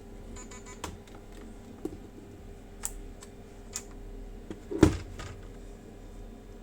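Handling noises: light clicks and taps, with one louder sharp knock and brief rattle about five seconds in.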